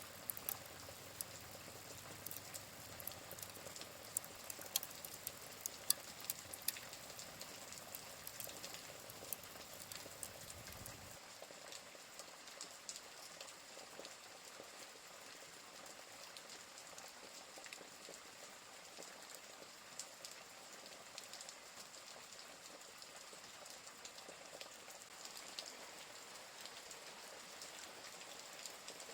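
Steady rain mixed with the crackle of a wood fire: sharp pops come often for the first ten seconds or so. At about eleven seconds the low rumble drops out suddenly and the pops thin out, leaving mostly the rain hiss.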